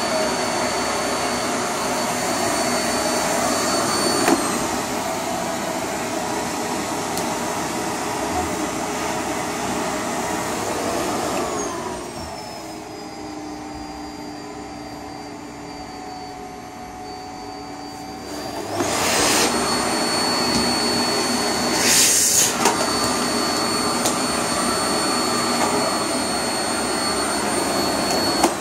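Vacuum cleaner motor running with a steady high whine. About twelve seconds in, its pitch slides down and it goes quieter. About nineteen seconds in, it picks back up, with a brief louder rush of air a few seconds later.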